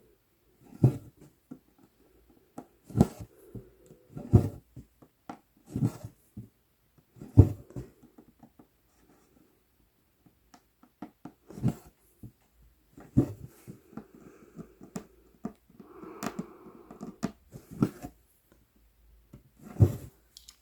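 Cross-stitch needle (size 24) being pushed and pulled through 11-count Aida cloth, a soft thump with a short rasp of floss drawn through about every one and a half seconds.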